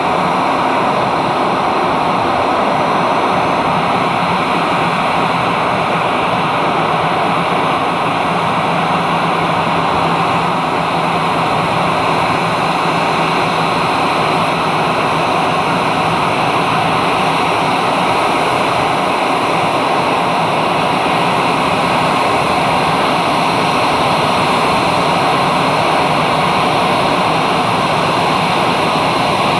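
Steady, loud noise of a parked jet airliner's engines running, mixed with the hiss of heavy rain, with a faint constant whine through it.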